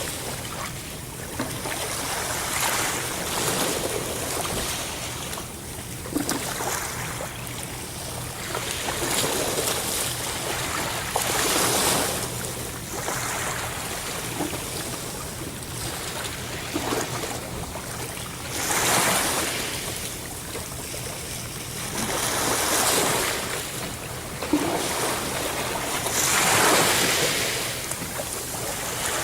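Ocean surf: waves breaking and washing in, the noise swelling and falling back every few seconds, with the biggest surges coming in the second half.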